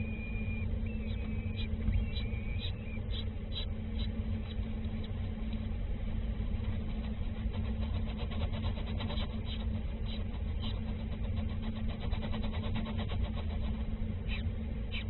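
Small birds chirping in short high notes, with a fast run of rapid chips in the middle, over a steady low rumble and hum like a running engine.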